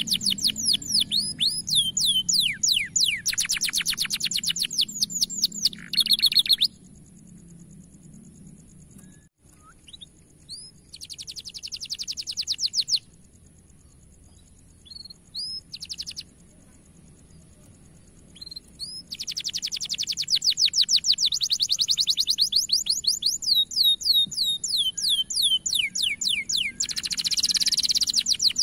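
Domestic canary singing in fast, loud trills of rapidly repeated sweeping notes. The song breaks off twice into quieter spells of scattered single chirps before the trills return.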